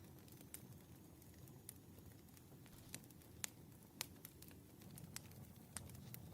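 Wood fire crackling faintly: a low steady rumble with scattered sharp pops and snaps at irregular intervals, the strongest a little past the middle.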